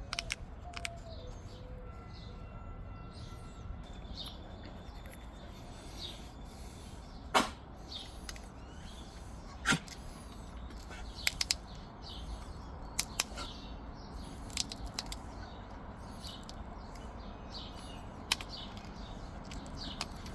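Obsidian being pressure-flaked into a small arrowhead: sharp clicks and snaps as small flakes come off the edge, about a dozen at irregular intervals, the two loudest about 7 and 10 seconds in. Birds chirp faintly in the background.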